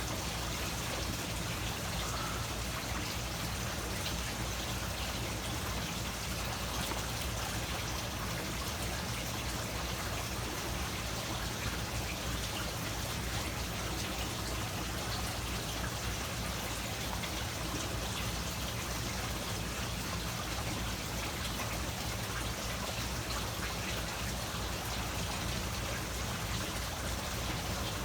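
Steady trickling, rain-like water noise with a low rumble underneath, unchanging throughout.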